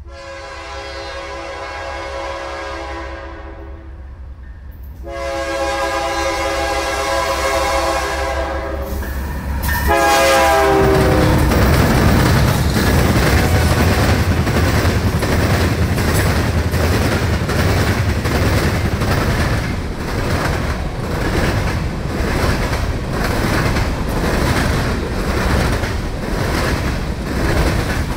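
Canadian National train's diesel locomotive horn sounding two long blasts, then a short one that drops in pitch as the locomotive passes. The train's wheels then clatter steadily and loudly on the rails as the cars roll by.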